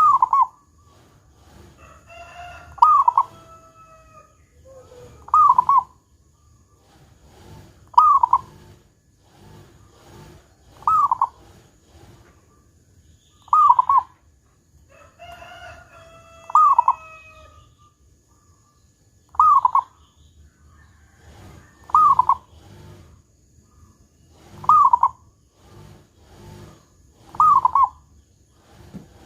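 Zebra dove (perkutut) cooing over and over: a loud, short, falling double note about every two and a half to three seconds, with softer notes between.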